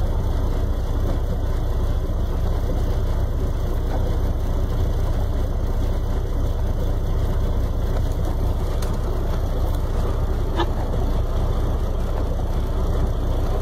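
Vehicle engines idling in a steady low rumble.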